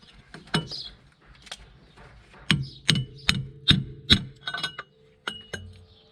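Hammer striking a metal pipe that drives a new front wheel bearing into the hub of a Mercedes CLK W208, with the old bearing used as a driver. One blow comes about half a second in, then a run of five hard strikes roughly every 0.4 s, each leaving a metallic ring, and then a few lighter taps.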